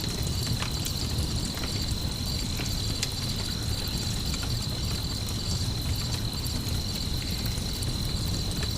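Campfire crackling with scattered sharp pops over a steady low rumble, layered with crickets chirping in a continuous high trill.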